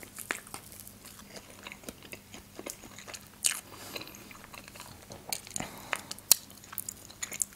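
Close-miked chewing of thin blini spread with condensed milk, with scattered sharp, wet mouth clicks and smacks.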